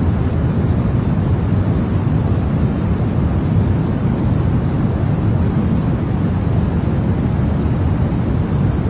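Continuous white noise, an even, unchanging rush weighted toward the low end, with most of its strength in the deep register.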